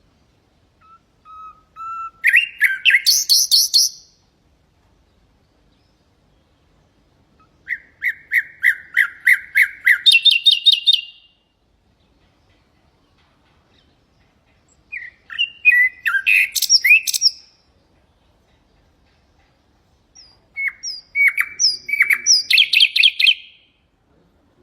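Common nightingale singing four separate phrases with pauses of a few seconds between them. Each phrase is a fast series of repeated notes that jumps in pitch partway through.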